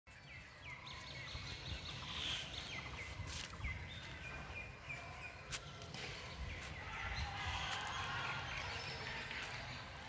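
Birds chirping: a run of short falling chirps in the first few seconds, then busier calling near the end, over a steady low rumble with a few sharp clicks.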